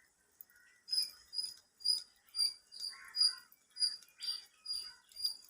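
A small animal chirping: short, high chirps repeating about twice a second.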